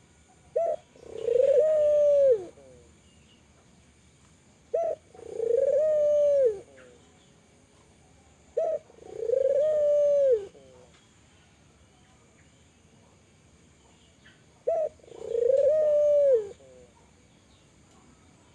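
Spotted dove (tekukur, Kelantan type) cooing four times, about every four seconds. Each call is a short clipped note followed by a longer coo that rises, holds and then drops.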